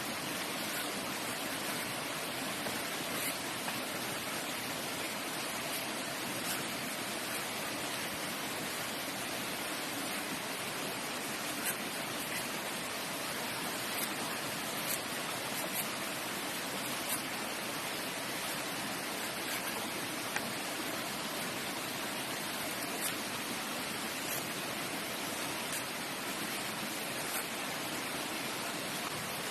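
Steady rush of running water, with faint clicks every few seconds from a knife shaving the peel off a mataad (elephant apple) fruit.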